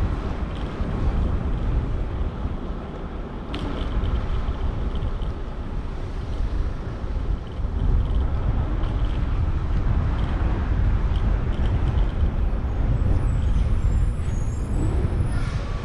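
Wind rushing over the microphone during a bicycle ride in city traffic, with passing road vehicles. A sharp click comes about three and a half seconds in, and a brief high squeal near the end.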